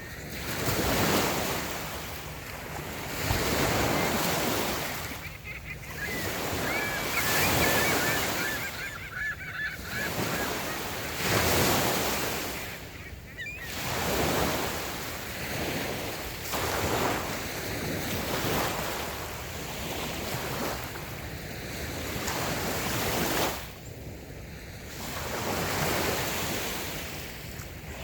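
Light waves breaking and washing on a sandy beach, surging and easing every few seconds. A bird calls briefly in a quick run of repeated notes about a quarter of the way in.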